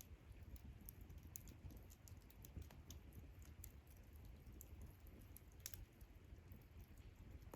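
Faint wood campfire crackling: irregular small pops and snaps, one sharper pop near the middle, over a low steady rumble.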